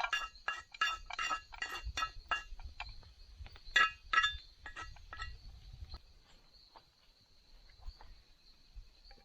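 Metal cookware and utensils clinking and ringing: a quick run of clinks, two louder ones about four seconds in, then fewer and fainter. A steady high insect drone runs underneath.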